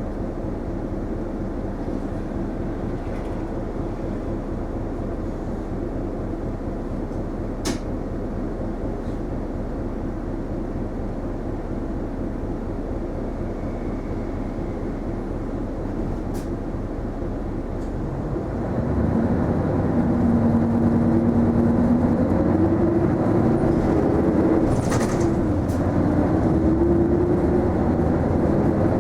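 Inside the cabin of an Isuzu Erga non-step city bus: steady engine and road noise while running. About 19 seconds in the engine gets louder, with rising tones as the bus accelerates. A few sharp clicks stand out over it.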